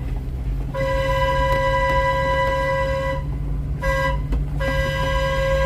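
Train horn blowing the grade-crossing signal: a long blast, a very short one, then a final long blast that runs on, all on one steady pitch over the low rumble of the moving train.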